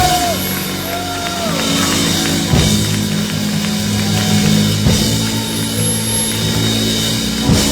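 Live gospel band music: a drum kit with strong accented hits about every two and a half seconds over long held low chords.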